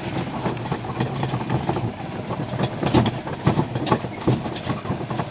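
Tractor engine running steadily while the carts it tows clatter and knock irregularly, with the loudest knocks in the middle.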